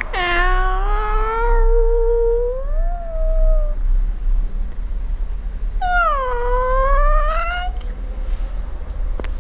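Domestic cat yowling: two long, drawn-out calls, the first lasting nearly four seconds and rising in pitch near its end, the second shorter, about six seconds in. A steady low rumble runs underneath.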